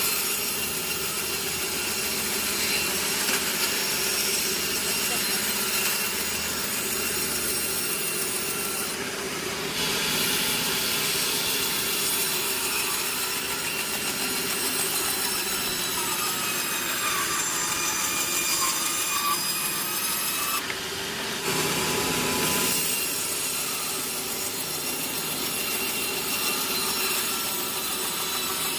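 Sawmill saw cutting through a log: a steady, continuous cutting noise with a high whine, its high end falling away briefly twice, about nine and twenty-one seconds in.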